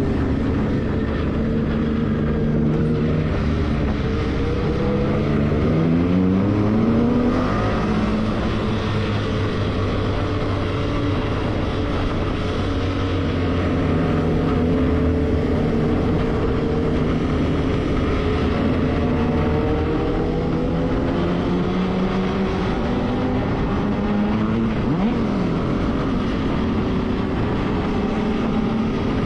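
Motorcycle engine running while riding, its pitch rising as it accelerates about five seconds in, then holding steady.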